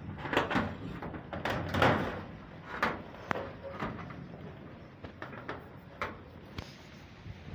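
Irregular knocks, clatters and short scrapes of hard objects being handled, busiest in the first three seconds and sparser after.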